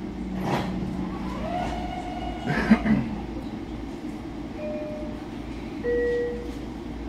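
Stopped Long Island Rail Road electric commuter train heard from inside the car: a steady low hum and rumble from its equipment. A couple of clunks come about half a second and nearly three seconds in, and short high tones sound near the end.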